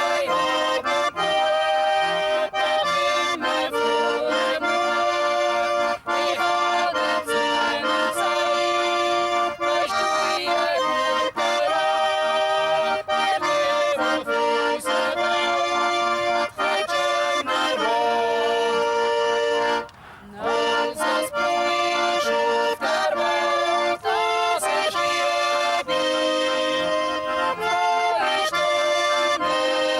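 Accordion playing traditional folk music, with a brief break in the playing about twenty seconds in.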